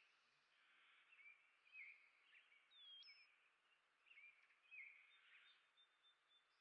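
Faint chirps and short calls of songbirds, coming one after another, with a single whistled note about three seconds in that dips and then jumps up sharply.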